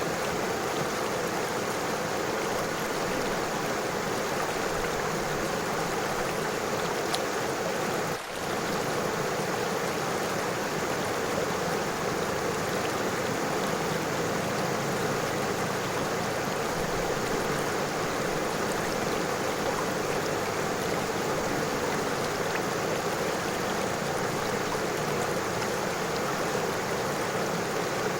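River water flowing in a steady rush, with a brief dip in level about eight seconds in.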